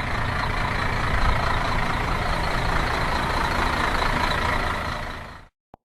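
Heavy truck running and rolling, a steady rumble that fades and cuts off about five and a half seconds in.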